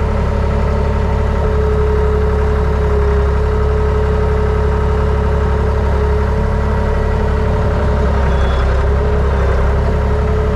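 Plow truck engine running steadily: a constant low drone with a thin, steady whine above it.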